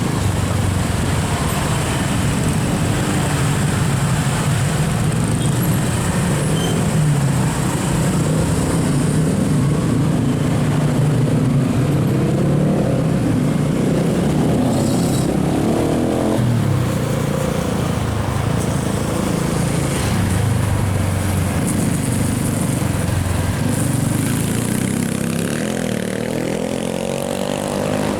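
Road traffic in a jam: vehicle engines running as they creep along, their pitch rising and falling as vehicles pull away and pass.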